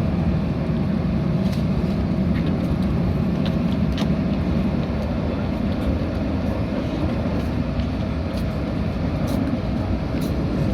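Steady low rumble of a Metra commuter train, with a few faint clicks scattered through it.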